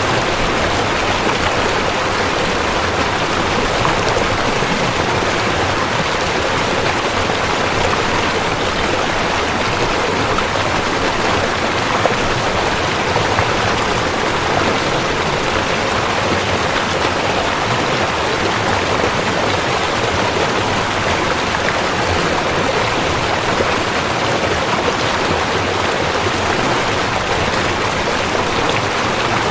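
River water rushing, a steady, even roar of flowing water.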